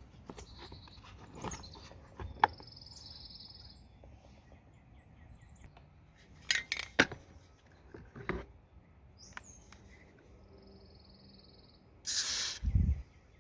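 Scattered clicks and knocks of small parts being handled, with birds chirping in short buzzy trills. Near the end comes a louder rush of noise ending in a low thump.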